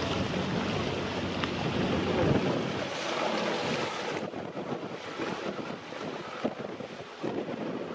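Wind gusting across the microphone: a heavy buffeting rumble that eases off about two and a half seconds in, then a lighter rushing that drops away again a little later.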